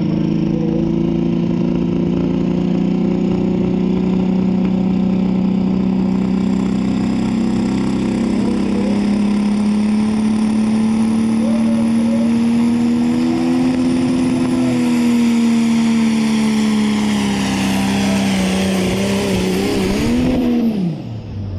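Pulling tractor's engine at full throttle through a pull, its loud note holding steady and slowly rising, then wavering near the end before dropping away sharply.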